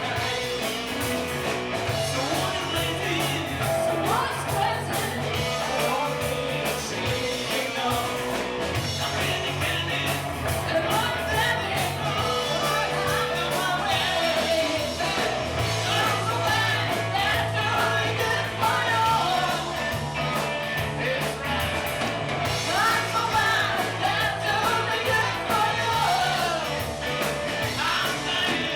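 Live rock-and-roll band playing a song, with a woman singing lead over a steady bass line.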